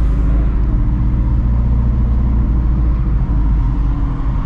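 Exhaust of a 2016 Shelby GT350's 5.2-litre flat-plane-crank V8 with long-tube headers, running steadily while driving at low, even revs.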